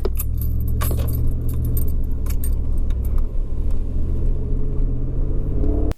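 Inside the cab of a 2015 Ram 1500 with a 5.7L Hemi and Carven Competitor cat-back exhaust while driving: a steady low engine and exhaust drone with road noise, and scattered light jingling rattles. The engine note rises near the end.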